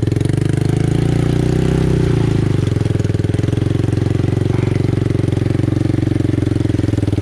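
ATV engine running hard with a fast, even firing pulse. Its pitch rises slightly in the first two seconds, then it holds a steady note.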